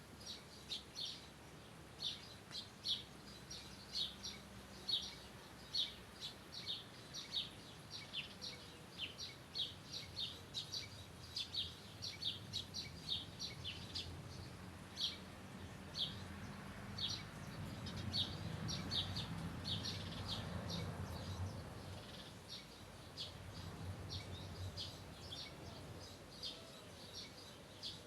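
Birds chirping: short, high chirps repeating several times a second. A low rumble swells up about halfway through and fades again.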